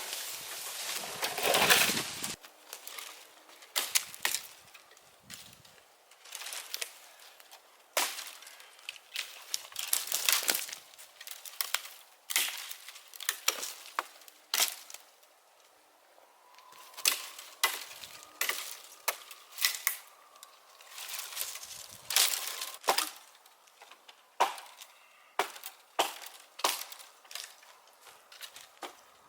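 Firewood being chopped and split with a hatchet: a run of sharp cracks and knocks of wood, roughly one every second or two, with a longer, louder splintering burst about a second in.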